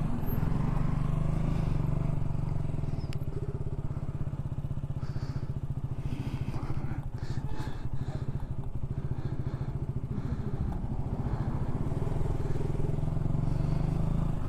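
Motorcycle engine running at a steady pace while riding, with road and wind noise around it.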